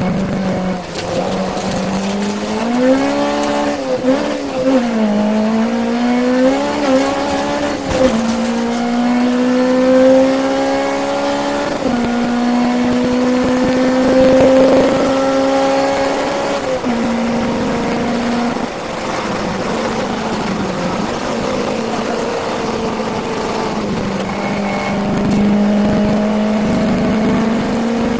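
Peugeot 205 Mi16 rally car's 1.6-litre 16-valve four-cylinder engine at full effort on a stage. The revs swing up and down through the opening seconds, then climb hard through the gears, with sharp drops at the upshifts about 8 and 12 seconds in. Revs fall again a little past halfway and hold steadier near the end.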